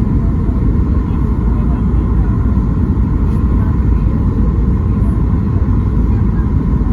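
Steady low rumble of cabin noise inside a Boeing 737 MAX 8 airliner, heard from a rear window seat, with a faint steady tone above it and no sudden changes.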